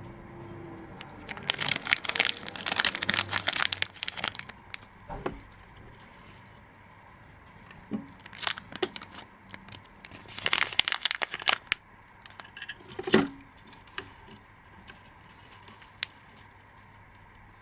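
Crinkling and rustling handling noise in three bursts of dense crackles, with a single sharper knock about thirteen seconds in.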